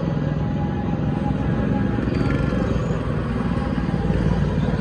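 Small gasoline go-kart engines running steadily as the karts circle the track, a continuous low rumble.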